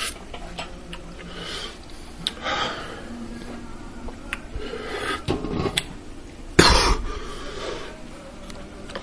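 A man coughing and clearing his throat from the burn of ghost pepper sauce he has just eaten: a few coughs, the loudest about six and a half seconds in.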